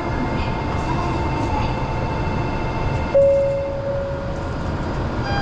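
Steady noise of a Shinkansen bullet train. About three seconds in, a single held tone starts suddenly and fades away.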